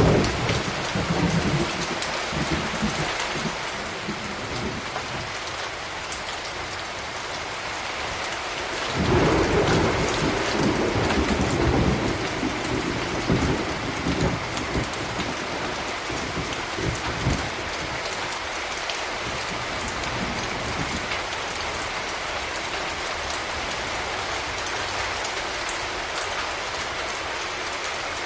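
Steady rain falling, with thunder rumbling: a low roll near the start, then a louder roll of thunder about a third of the way in that fades away over several seconds.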